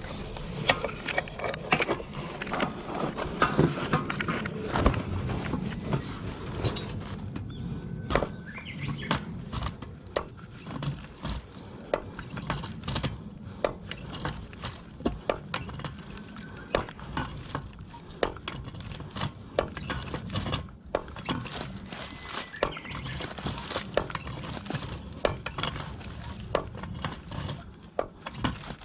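Irregular light clicks, taps and clinks of hand work with tools and pipe fittings over a low, steady background hum.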